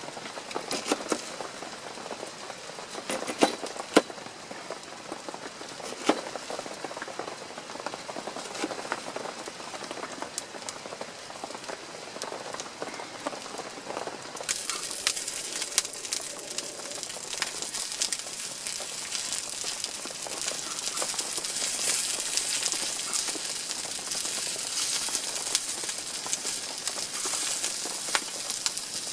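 Rain falling steadily, with scattered sharp crackles and pops over the first half. About halfway through, the rain hiss abruptly becomes louder and brighter.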